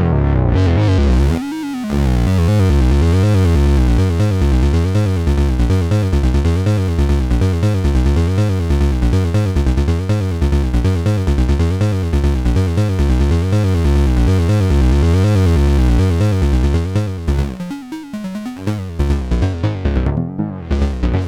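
Synthesizer music: a sequenced bass line of short, evenly repeating notes with higher synth notes above it. It thins out briefly about two seconds in and again near the end.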